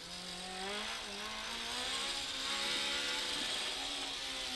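BMW M3 E30 Group A rally car's four-cylinder engine under acceleration, heard from inside the cabin, its pitch climbing over the first couple of seconds and then holding steady, over a constant hiss of wind and tyres.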